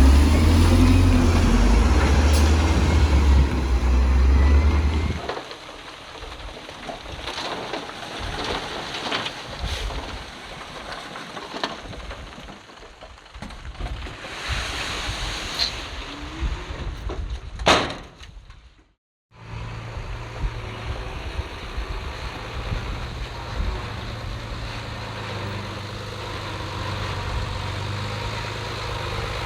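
Heavy diesel earthmoving machinery: a loud, low engine rumble for the first five seconds, then a quieter engine with scattered knocks and one sharp knock about 18 seconds in. After a brief dropout near 19 seconds, an engine runs steadily at idle.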